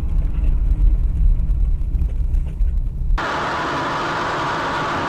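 Low, uneven road and engine rumble of a moving car. About three seconds in it cuts off abruptly to a steady hiss-like road noise.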